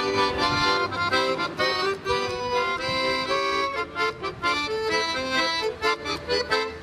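Accordion playing the instrumental introduction to a song: a quick melody over held chords.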